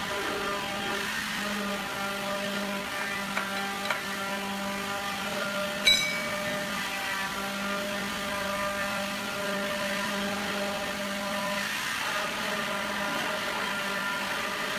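An electric motor runs at a steady speed with an even hum. There are a couple of light clicks, then a single sharp metallic clink about six seconds in.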